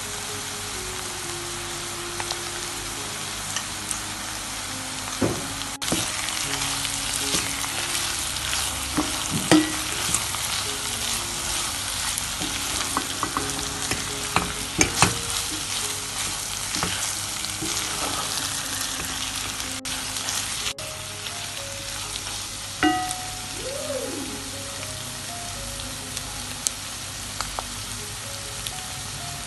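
Minced meat, onions and bell peppers sizzling in a frying pan while tomato paste is stirred through with a wooden spatula. A steady sizzle runs under scraping and a few sharp knocks of the spatula against the pan.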